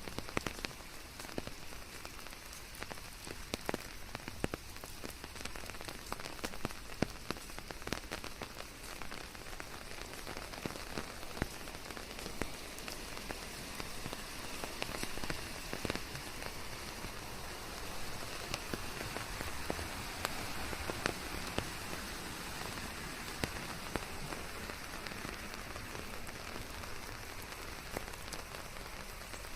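Steady rain falling, with many individual raindrops pattering on leaves and surfaces close by.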